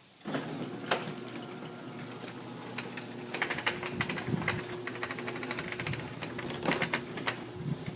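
Craftsman chain-drive garage door opener starting about a third of a second in and running steadily as it closes the door, a steady motor hum under a clattering rattle of chain and door rollers.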